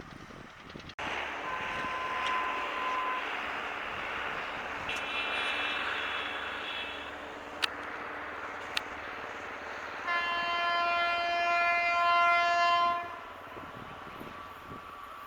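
Indian Railways train running past with a steady rumble, its horn sounding briefly around the middle and then in a longer, louder blast of about three seconds near the end.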